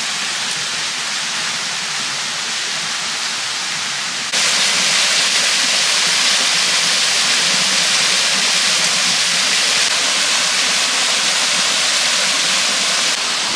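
Waterfall rushing as a steady, loud wash of water noise, jumping suddenly louder about four seconds in.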